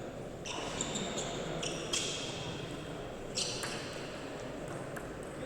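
Table tennis ball being struck and bouncing: a series of short, sharp, ringing clicks, four of them about 0.4 s apart in the first two seconds, then a few more scattered later, over a steady background murmur.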